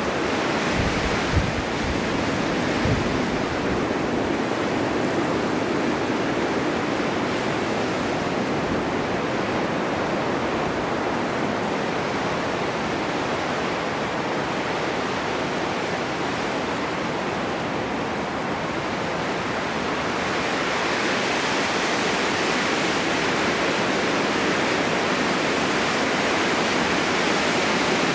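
Snowstorm wind blowing steadily as a dense, even rush, with a few low thumps in the first three seconds and a gust swelling brighter about twenty seconds in.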